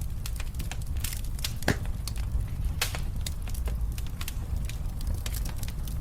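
Wood fire burning in a fireplace: irregular sharp crackles and pops over a steady low rumble of the flames, with one louder pop a little under two seconds in.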